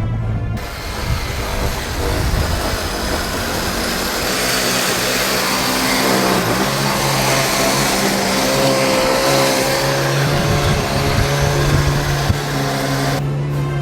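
Small mini V8 engine of a metal RC truck running, a dense steady mechanical noise that starts about half a second in and cuts off about a second before the end, with background music carrying on underneath.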